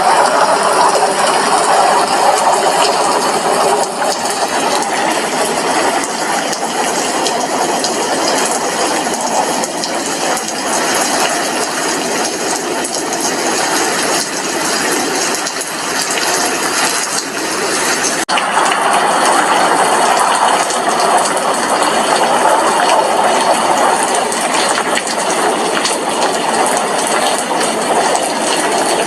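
Steady rain, drops striking a glass window pane in a dense, even patter.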